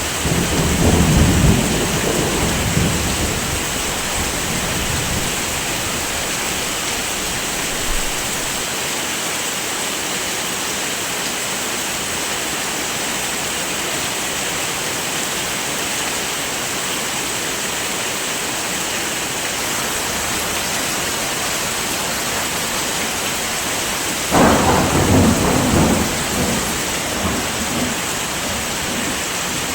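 Heavy rain falling steadily. Two low rolls of thunder rumble through it, one right at the start lasting a few seconds and another about 25 seconds in.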